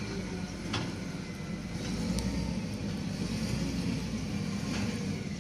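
Starter motor cranking a three-cylinder diesel excavator engine with its fuel supply cut off, so it turns over steadily without firing. There is no solenoid click, which rules out the starter as the fault.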